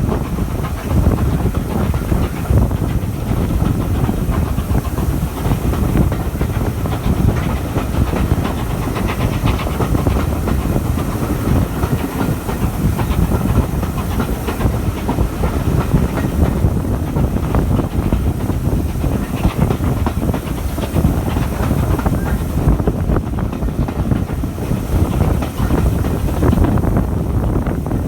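Steam-hauled passenger train running steadily, heard from on board: a continuous rumble of wheels on rail with a scatter of clicks over the track and some hiss.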